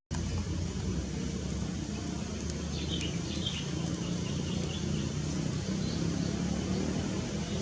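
Steady low outdoor rumble, with a short run of faint, high bird chirps about three seconds in.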